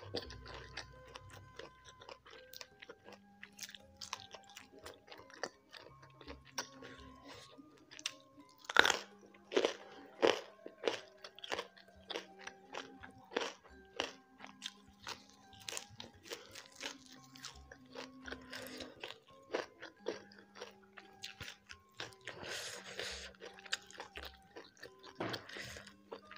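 Close-up chewing and crunching of a meal of rice, fish and raw lalapan vegetables such as young jengkol beans and leafy greens, with a string of loud crunches about nine to ten seconds in and again near the end. Soft background music with long held notes plays underneath.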